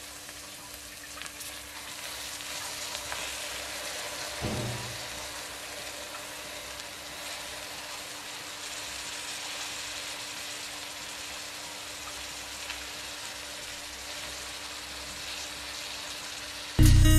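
Steady sizzling of chopped sukuma wiki greens frying in an aluminium pot on the stove, with a short low thud about four seconds in.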